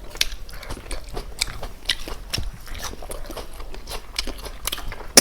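Close-up eating sounds: a person biting and chewing chicken, with many short, irregular crunching and clicking bites.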